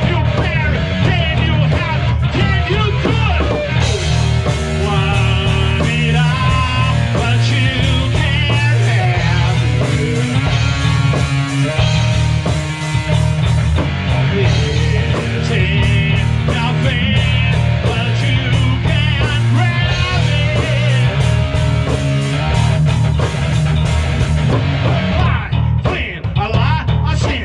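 Rock band of electric guitar, bass guitar and drums playing a loud, driving rock song.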